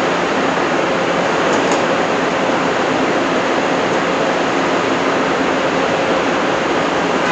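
Steady factory-floor noise of a truck assembly line: an even rush of ventilation and machinery with a low hum, and two faint light clicks about a second and a half in.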